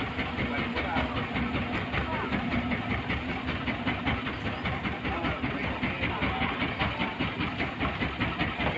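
Heavy engine running steadily with a fast, even clatter.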